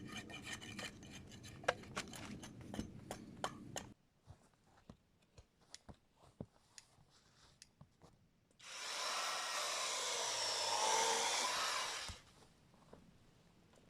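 Scattered knocks and clicks of handwork, then a saw cutting steadily through wood for about three and a half seconds, continuous and even rather than in separate strokes.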